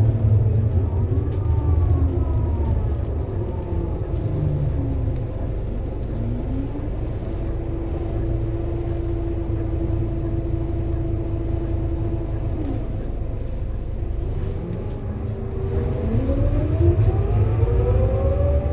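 Scania K230UB city bus engine and ZF Ecomat six-speed automatic gearbox under way, with a steady low rumble. The drivetrain pitch falls as the bus slows, holds a steady tone for several seconds mid-way, drops again, and climbs near the end as the bus pulls away and accelerates.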